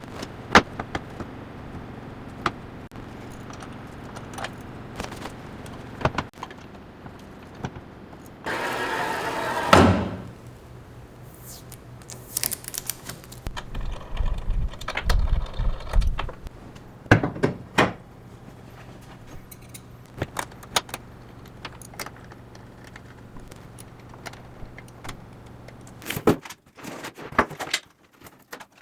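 Metal parts and hand tools clinking, clattering and knocking as a CNC router machine is assembled, over a steady low hum. About nine seconds in there is a brief rushing noise that lasts about a second and a half.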